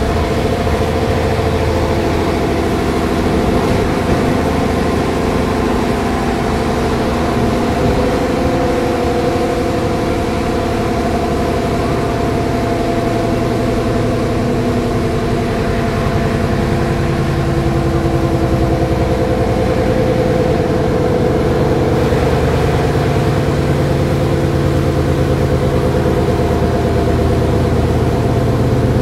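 Intercity passenger train heard from inside a carriage while running along the line: a steady rumble of the wheels on the rails with a constant hum over it.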